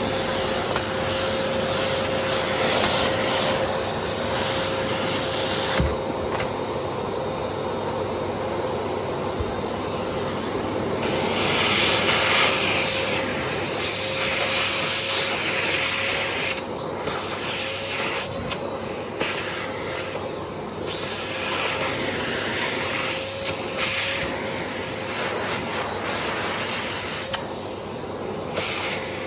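Vacuum cleaner running with a steady motor whine. Its airy hiss swells and drops repeatedly as the nozzle is pushed back and forth over the carpet.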